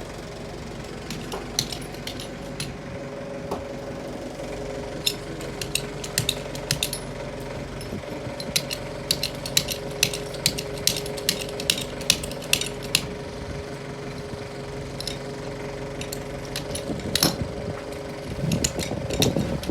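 A heavy diesel engine runs steadily under a series of sharp metallic knocks and clinks, most frequent for a few seconds in the middle. A louder rumble builds near the end.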